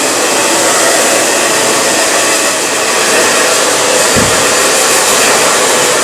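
Handheld hair blow dryer running steadily, its air stream rushing with a constant motor whine as it dries the hair.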